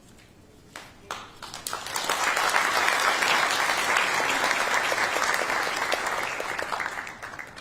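Audience applauding: a few scattered claps about a second in build into steady applause, which tapers off near the end.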